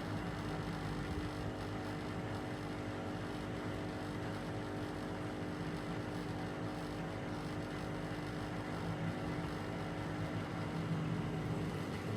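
Gorenje WA72147 washing machine running, its Selni motor turning the drum with a steady hum, the motor running again on new carbon brushes.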